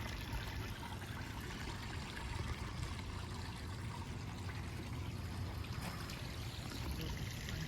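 Steady wash of running water, like a stream or small cascade, with no distinct splashes or breaks.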